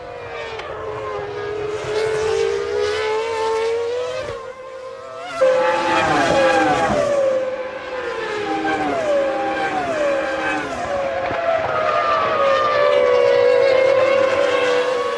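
Formula One car engine running at high revs. About five seconds in the sound jumps abruptly; the pitch then falls in several quick steps, downshifts under braking, and climbs steadily again as the car accelerates.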